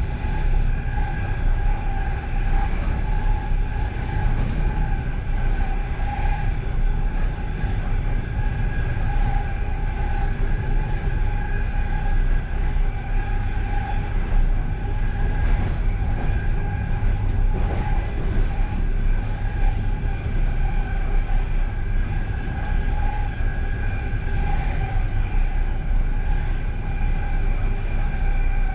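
Passenger train running steadily at speed, heard from inside its last carriage: a constant rumble with a steady high whine over it.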